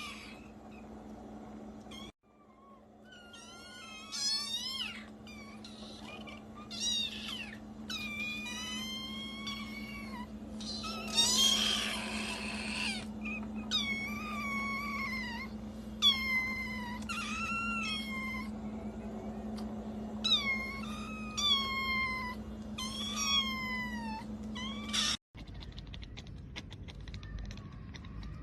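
A cat meowing again and again: about a dozen drawn-out meows that fall in pitch, with one longer, harsher cry in the middle, over a steady low hum. The meowing stops abruptly near the end.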